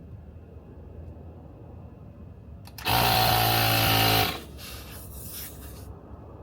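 Compressed-air equipment, an air compressor or its blow gun, runs loudly for about a second and a half: a hum with hiss over it that starts and stops abruptly, about halfway in.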